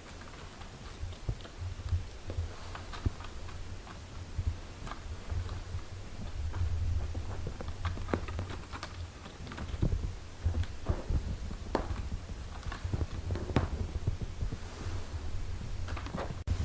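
Mother cat and her newborn kittens, close up: soft, irregular licking and suckling clicks over a steady low rumble.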